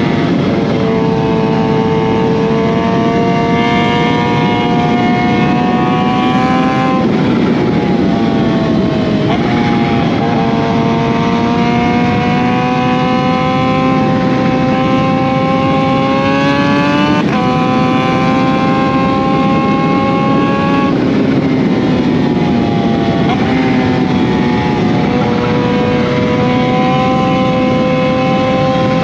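2020 Kawasaki Z H2's supercharged inline-four engine running through an SC Project CRT exhaust while riding. The engine note climbs slowly under throttle and drops sharply several times as gears change, over a steady rush of wind noise.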